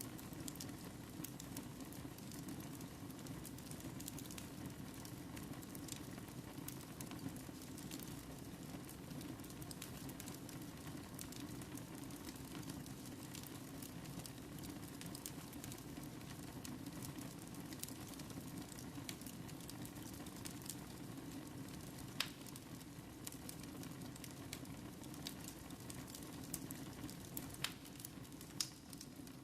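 Wood fire burning in a fireplace: a steady low rush of flame with constant small crackles and scattered sharper pops, a few louder ones in the second half.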